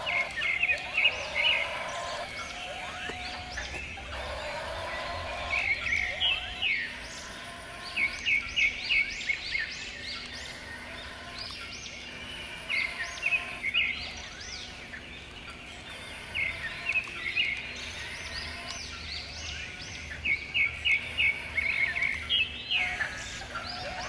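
Birds calling: groups of quick, high chirps come every few seconds over a faint steady background.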